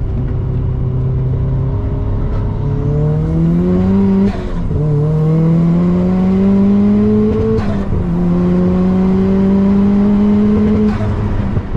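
Turbocharged Mazda MX-5's four-cylinder engine pulling hard through the revs, its pitch climbing steadily. It drops sharply at two upshifts, about four and eight seconds in, and eases off near the end.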